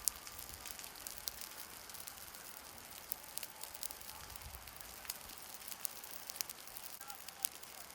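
Burning vegetation crackling: irregular sharp snaps and pops over a steady hiss.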